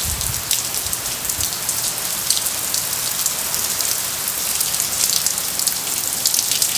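Steady rain falling, a dense even hiss with many close drops tapping throughout.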